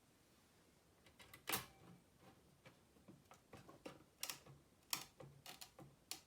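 Irregular clicks and light knocks of small hard parts being handled, about a dozen of them at uneven spacing, the loudest about a second and a half in.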